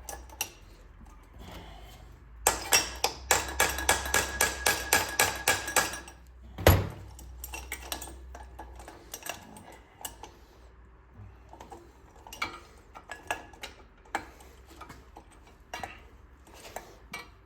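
Metal hand tools and puller parts handled on a workbench: a quick run of sharp metallic clicks, about four a second, one loud knock about seven seconds in, then scattered light clinks of metal on metal.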